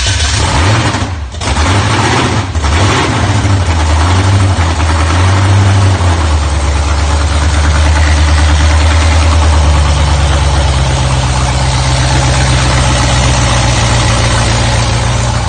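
Newly installed carburetted Holden 304 V8 in an HQ ute running just after starting: it surges unevenly over the first few seconds with a short dip about a second in, then settles into a loud, steady idle from about six seconds in.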